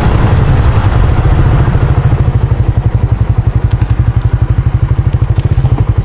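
Motorbike engine running at low revs, a fast, even putter that grows more distinct about two seconds in.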